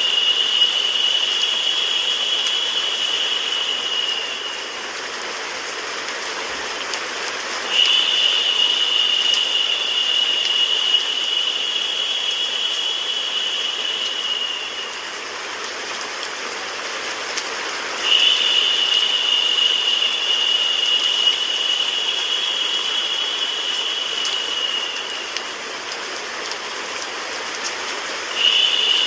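White noise mixed with a rain sound effect: a steady hiss with faint scattered drop ticks. A high, narrow hiss layered on top comes in for about seven seconds at a time and drops out for about three, three times over.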